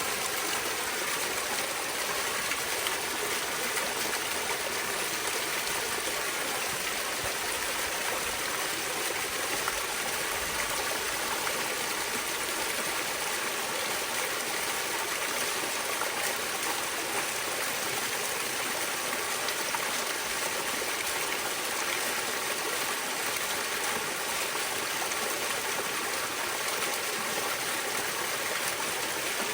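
Waterfall rushing and splashing steadily: an even, unbroken hiss of falling water.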